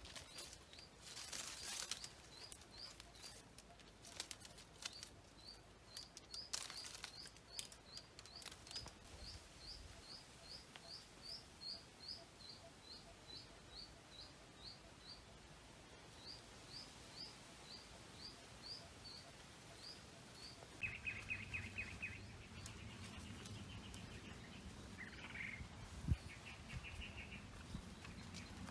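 A bird repeating a short, high chirp about twice a second, falling silent about twenty seconds in. A fast, lower trill then follows in short bursts, with a couple of brief rustles early on and one sharp tap near the end.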